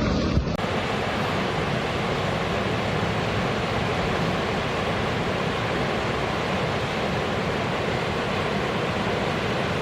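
Strong wind blowing in a steady, unbroken rush. The sound changes abruptly about half a second in and then holds even.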